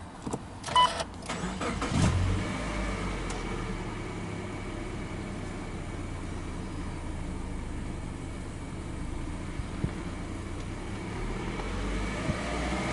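A short electronic beep, then the Subaru Legacy B4 2.5i's EJ25 2.5-litre flat-four is cranked by the starter and catches about two seconds in. It then idles steadily.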